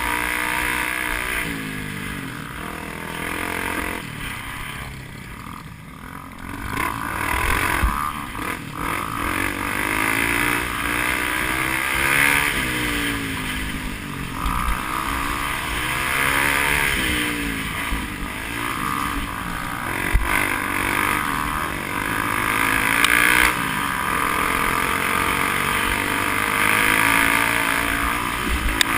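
Off-road motorcycle engine revving up and down again and again as it is ridden, with the pitch rising and falling every second or two and a few short knocks along the way.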